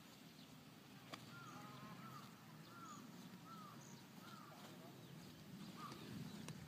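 Faint bird calling a run of short rising-and-falling notes about half a second apart, with one more call near the end; a single sharp click about a second in.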